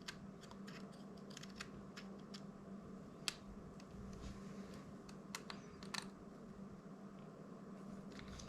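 Faint, scattered small clicks and taps of small plastic drone parts, screws and hand tools being handled on a workbench, over a steady low hum.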